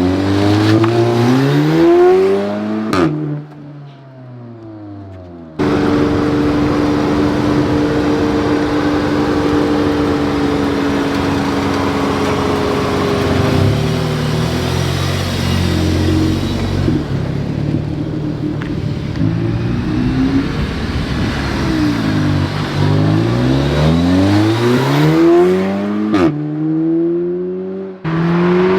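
Audi S3's turbocharged four-cylinder engine pulling hard, its pitch rising and then dropping sharply at quick dual-clutch upshifts, about three seconds in and again twice near the end. In between it runs at a steady engine speed for a long stretch.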